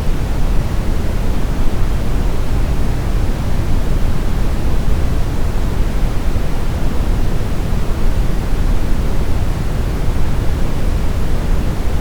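Steady brown noise: a smooth, even rumbling hiss weighted heavily toward the bass, with no changes or events.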